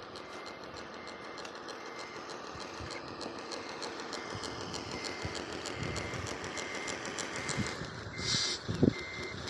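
Reversing beeper on a radio-controlled construction truck, beeping steadily about twice a second over the whir of the model's motors and gears. A short hiss comes about eight seconds in, and a couple of knocks come near the end.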